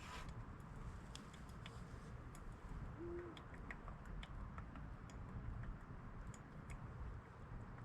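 Quiet outdoor ambience: a faint low rumble with scattered small ticks and clicks, and one short low hoot about three seconds in.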